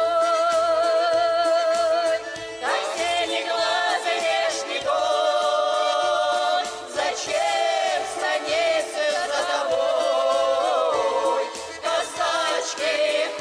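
A folk-style song continuing, with a singer's long held notes sung with vibrato over musical accompaniment; no words can be made out.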